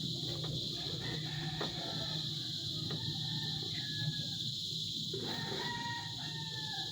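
Steady, high-pitched insect chirring with a low hum underneath, a few faint clicks, and faint distant bird calls, one longer call near the end.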